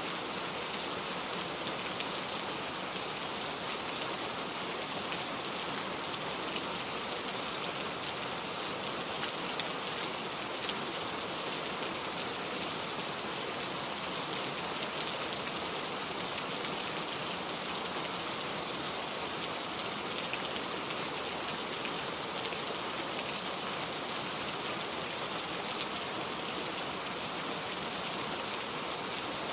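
Steady rainfall, a continuous hiss of falling rain with many small drops pattering on a surface.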